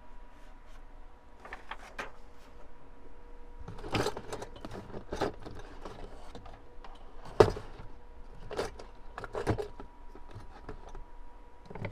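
Craft supplies being handled and rummaged through: a scatter of small clicks and knocks, the sharpest about seven seconds in, over a faint steady hum.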